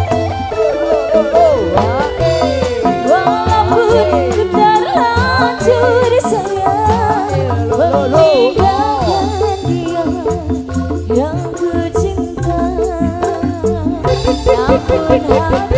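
Dangdut band music without lead vocals: a wavering melody line over a steady bass and drum beat.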